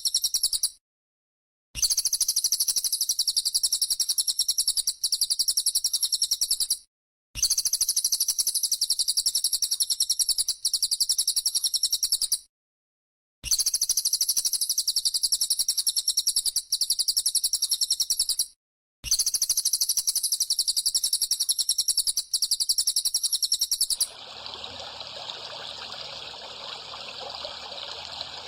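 Looped recording of a small songbird's rapid, high-pitched chirping trill. It comes in blocks of about five seconds that cut off abruptly into short silent gaps. About 24 seconds in, it gives way to steady trickling water.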